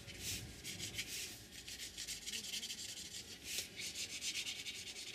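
A Talens Ecoline brush pen rubbed along the edges of paper in quick, repeated strokes, a faint scratchy rubbing.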